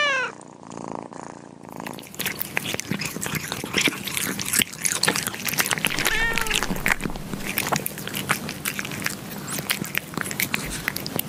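Kittens lapping yogurt off a clear panel: a fast, irregular run of wet tongue clicks and smacks. A short meow comes right at the start and another about six seconds in.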